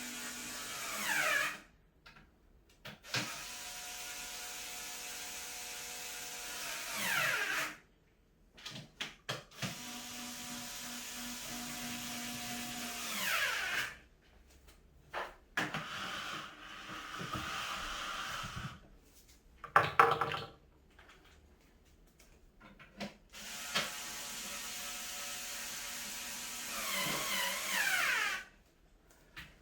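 Electric drill-driver running screws in: about five runs of a steady motor whine, each a few seconds long with short pauses between, most ending in a quick upward sweep of pitch.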